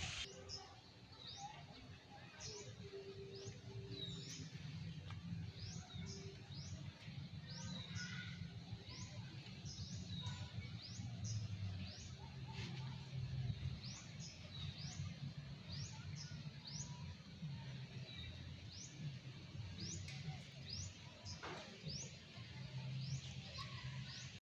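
Birds chirping: short rising chirps repeated about once or twice a second, over a low steady rumble.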